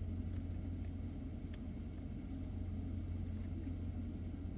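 Steady low drone of a car idling, heard inside the cabin, with a single faint click about a second and a half in.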